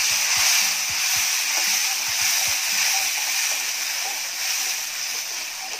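Ground tomato paste sizzling in hot coconut oil in a steel kadai as a steel slotted spoon stirs it: a steady hiss that eases a little toward the end.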